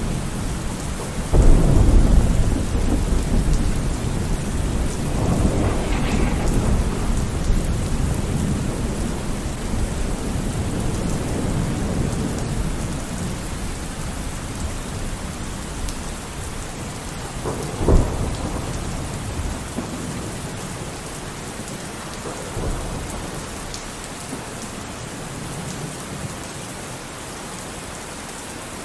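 Thunderstorm: steady rain hissing, with a loud low rolling rumble of thunder shortly after the start that dies away over several seconds, a sharp crack of thunder past the middle, and a fainter rumble soon after.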